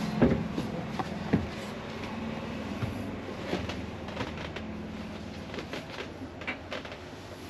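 Footsteps and knocks as someone climbs the entry steps into a motorhome: two heavy knocks near the start, another about a second in, then lighter irregular clicks, over a steady low hum.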